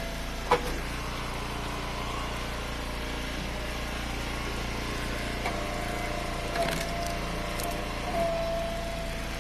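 Engine of a hydraulic wood splitter running steadily, with a high steady whine that comes in during the second half. A few sharp knocks of firewood, the loudest about half a second in.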